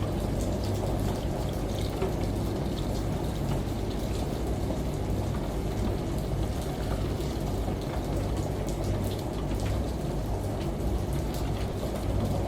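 Steady falling water from rain and a shower, with scattered drop ticks, over a low steady washing-machine hum.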